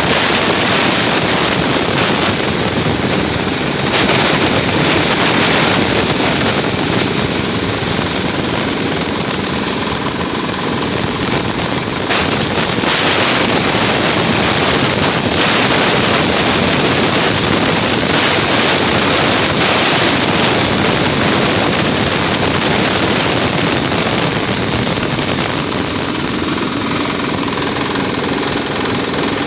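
Diesel engine driving a chaff cutter, both running steadily and loudly.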